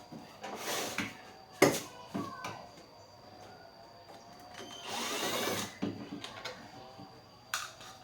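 Scattered knocks and clicks of tools and parts being handled, with a brief scraping swish that has a squeaky gliding edge about five seconds in.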